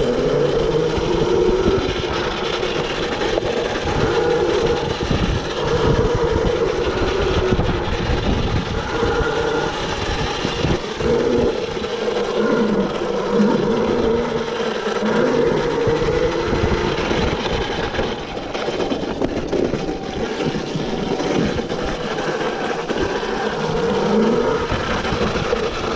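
Yozma IN10 electric dirt bike being ridden over rough trail ground. The motor's whine rises and falls in pitch with the throttle, over wind noise and repeated knocks and rattles from the bumps.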